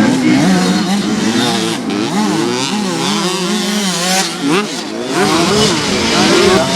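Several motocross bikes' engines revving, their pitches rising and falling and overlapping continuously.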